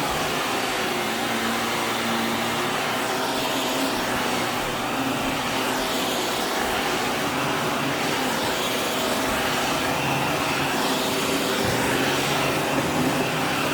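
Vacuum cleaner running steadily: a constant rush of air with a faint steady motor whine.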